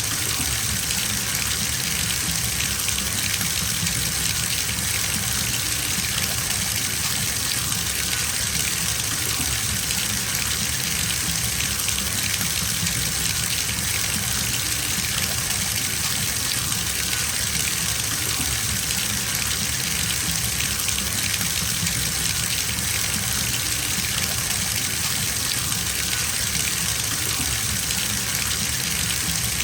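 Water from a bathtub tap pouring into a filling tub, a steady gushing rush with no change.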